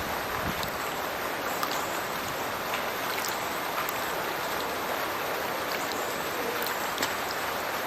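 Water from a burn falling out of a culvert into a river: a steady rushing splash with small droplet splashes scattered through it.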